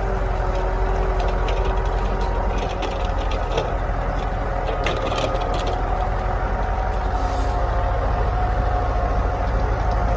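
Old GMC logging truck's engine running steadily at an even pitch, with a scatter of sharp clicks and rattles in the first half.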